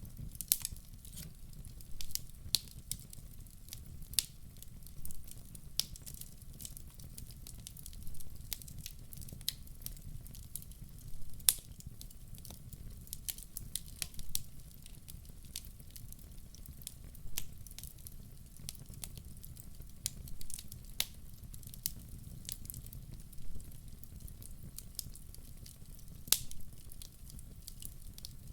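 A fire in a fireplace crackling, with irregular sharp pops and snaps over a steady low rumble. A few pops stand out louder than the rest.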